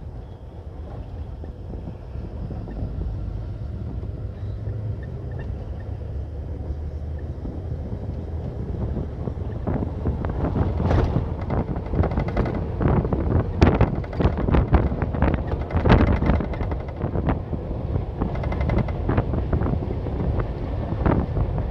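Wind buffeting the microphone over a low steady rumble, turning gustier and louder about halfway through with irregular surges.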